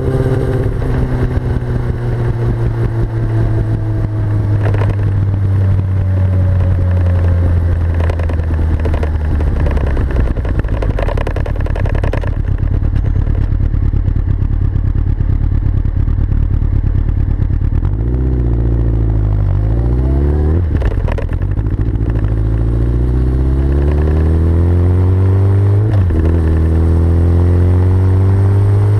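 Yamaha R6's 600 cc inline-four running through a full Akrapovic Evolution exhaust. The revs fall away over the first dozen seconds with several sharp pops of backfire from the exhaust. Around twenty seconds in there are a few quick blips of the throttle, then the revs climb steadily to the end.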